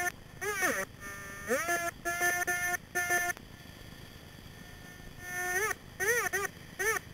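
Minelab Excalibur metal detector giving target tones: a string of short electronic beeps, some sliding in pitch, then after a brief lull quick rising-and-falling beeps about twice a second as the coil sweeps over a target.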